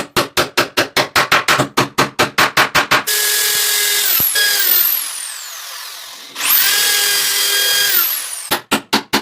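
Electric power tool motor, drill-like, pulsing on and off about seven times a second, then running steadily. It winds down almost to a stop, spins back up with a rising whine, and pulses again near the end.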